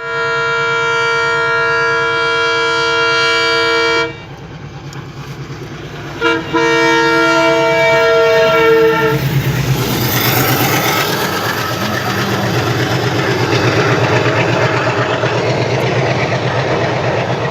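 Indian passenger train's locomotive horn sounding two long steady blasts, the first about four seconds, the second about three. Then the train runs past close by, with a loud rumble and the rhythmic clatter of wheels over the rail joints.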